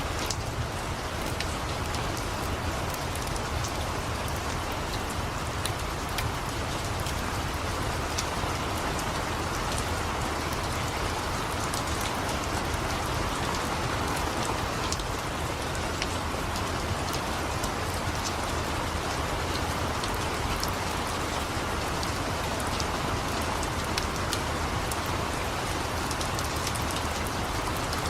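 Steady rain, with many sharp ticks scattered throughout and a low rumble underneath.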